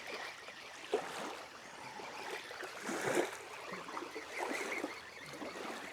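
Water splashing and trickling at the water's edge, with a few small knocks, the sharpest about a second in.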